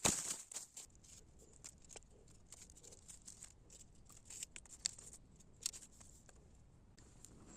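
Meat grilling over a campfire: irregular sharp crackles and pops, with a loud cluster at the very start and scattered louder pops after.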